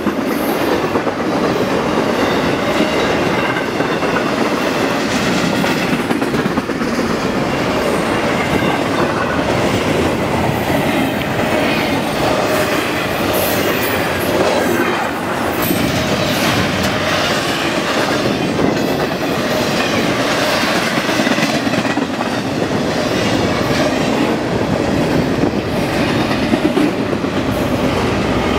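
Double-stack intermodal container cars rolling past at speed, wheels clattering over the rails in a steady rush, with faint thin wheel squeal riding on top.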